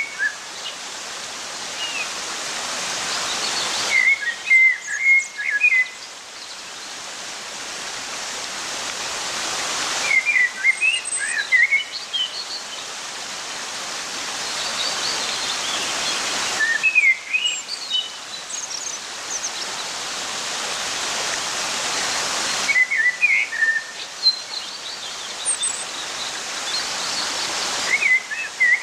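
Running water, a steady rushing hiss, with small birds chirping in quick clusters. The water noise swells and then cuts off abruptly about every six seconds, each cut followed by a burst of chirps, as if the same short clip repeats.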